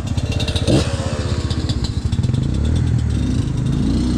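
Dirt bike engine running, with a quick throttle blip about a second in that rises sharply in pitch and then falls away, and the pitch climbing again near the end.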